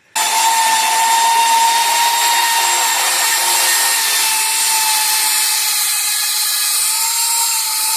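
Electric sander running against wood, smoothing the freshly angle-cut edges of the 2x4 ramp braces flush. It starts suddenly and then runs steadily and loud, with a steady whine over a strong hiss.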